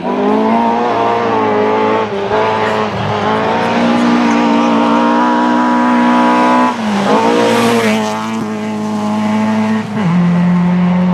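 Rally car engine running hard at high revs, its pitch held high, dipping sharply about two-thirds of the way through and settling lower near the end.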